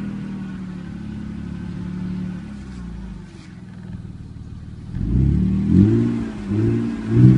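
BMW E46 320Ci's 2.2-litre straight-six running through a Supersport aftermarket exhaust: a steady idle, then from about five seconds in, quick throttle blips that rev up and fall back about three times.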